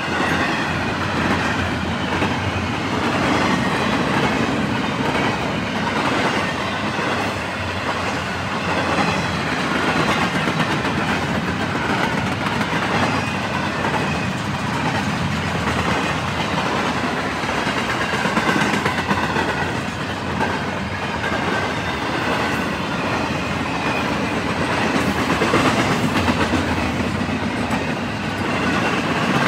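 Intermodal freight train cars, double-stack well cars and trailer flatcars, rolling past: a steady rumble of steel wheels on rail with a clickety-clack of wheels over rail joints.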